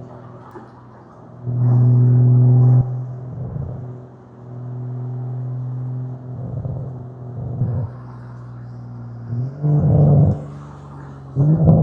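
Toyota Supra MK5 with an RK Titanium Signature aftermarket exhaust, running at a steady cruising drone that swells loudly for about a second near the start and again briefly midway. Near the end there are short throttle blips where the exhaust note rises in pitch.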